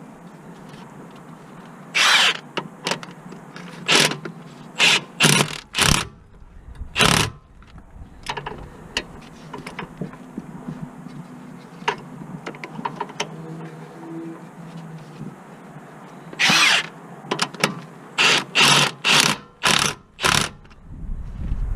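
Power tool run in short bursts, about a dozen in two groups, with a steady low hum between them.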